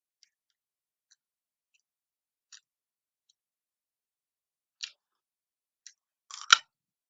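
Mealtime eating sounds: a few scattered light clicks, then a louder short clatter of sharp clicks near the end.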